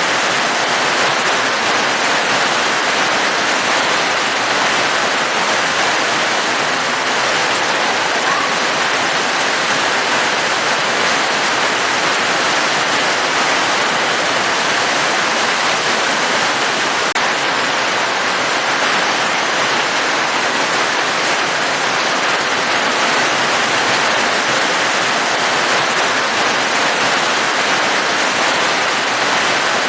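Steady heavy rain: a loud, dense, even hiss with no single drops or pauses standing out.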